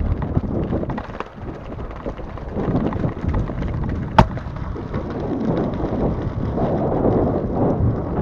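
Gravel bike riding over rough ground: an uneven rumble of tyres and frame rattle, with one sharp click about four seconds in.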